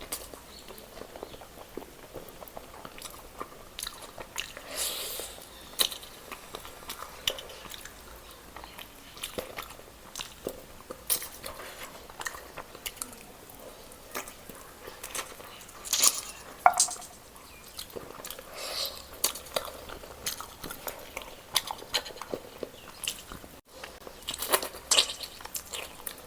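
Close-up eating sounds: a person chewing and biting into roast chicken, with many short wet clicks and crackles, now and then cutlery or a plate knocking.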